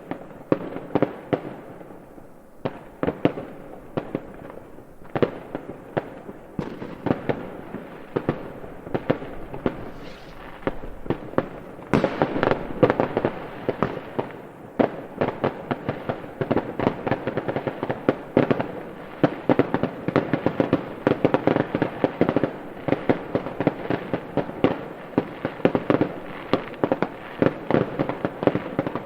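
Fireworks going off in rapid succession: a dense, unbroken run of sharp bangs and crackles, growing louder and thicker about twelve seconds in.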